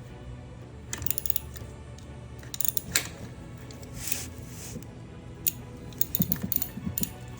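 Metal hand-tool clinks and clicks in short clusters, about a second in, around three seconds in and through the last couple of seconds: an improvised filter wrench and tools working the oil filter off a BMW R1150GS. A steady bed of background music runs underneath.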